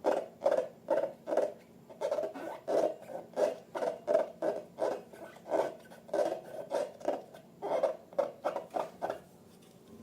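Slime being squeezed and kneaded by hand: a run of short squishes, about three a second, stopping about nine seconds in.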